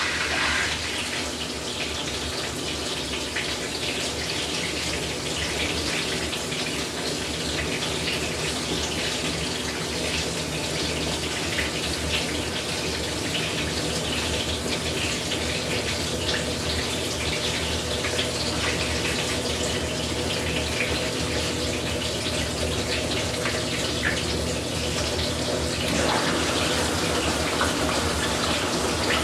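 Whirlpool Cabrio top-load washer filling: water rushes steadily into the tub through the inlet valve, over a low hum from the machine.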